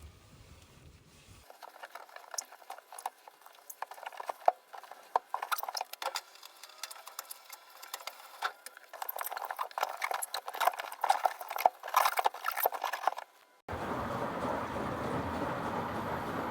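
Wet wiping and squelching on a washing machine's rubber door seal as cleaning product is washed off: an irregular crackle of small wet clicks and patters. Near the end it cuts suddenly to a steady rushing noise.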